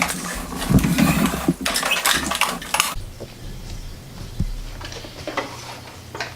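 Hard plastic toy fire truck being handled and turned around, knocking and rattling: a busy cluster of clicks and knocks for the first three seconds, then a few scattered taps.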